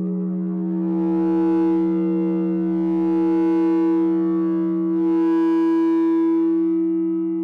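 No-input mixer feedback drone, a mixing desk fed back into itself through an effect pedal. It holds two steady low tones under a buzzing stack of overtones, while a brighter, hissing layer swells up and fades away about three times.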